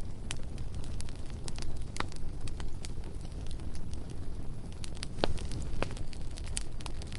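Bonfire crackling: sharp wood pops and snaps at irregular intervals, a few loud ones about five seconds in, over a low steady rumble.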